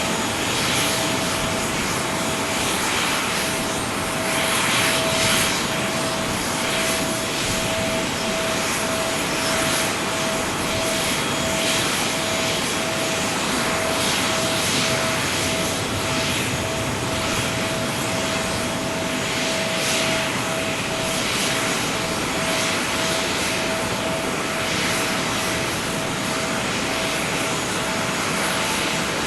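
Airbus A321neo's Pratt & Whitney geared turbofan engines running steadily: a constant whine over an even rush of jet noise, with no spool-up.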